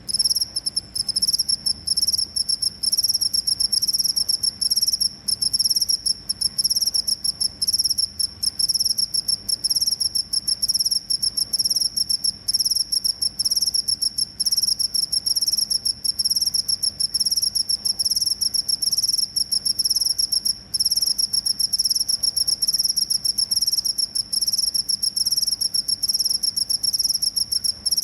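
Cricket chirping: a continuous, high-pitched trill of rapid pulses, broken only by brief gaps.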